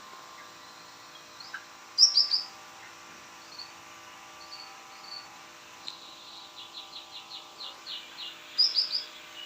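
Bulbuls calling: short, sharp chirped phrases, loudest in a burst about two seconds in and again near the end, with a quick run of repeated down-slurred notes just before it.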